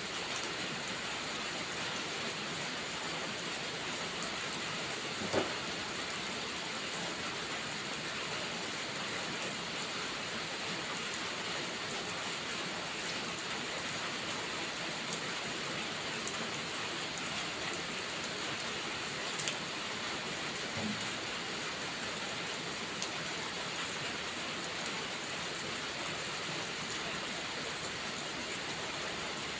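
Steady rain falling, an even, dense hiss, with a few isolated sharp clicks now and then; the loudest comes about five seconds in.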